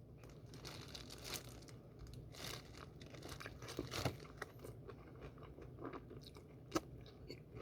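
A person chewing seasoned fried chicken and working the meat off the bones in the mouth: faint, irregular crunches and wet clicks, with one sharper click a little before the end.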